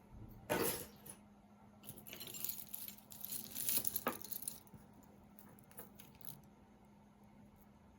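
Costume jewelry clinking and jangling as pieces are handled and rummaged through. A sharp clatter comes about half a second in, then a run of small clinks and rustles between about two and four and a half seconds.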